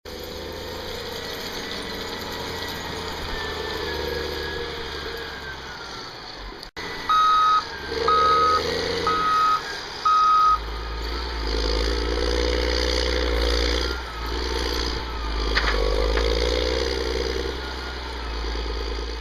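A snowplow truck's engine running, with its backup alarm beeping four times, about once a second, around seven seconds in. The engine's rumble deepens and grows louder after the beeping stops.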